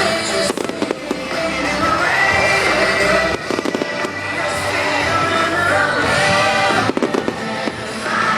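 Fireworks going off, sharp bangs and crackles in clusters about half a second in, around three and a half seconds and near seven seconds, over loud pop music with singing.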